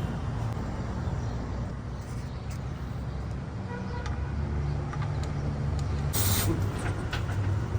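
A vehicle engine running steadily with a low hum. About six seconds in there is a brief hiss.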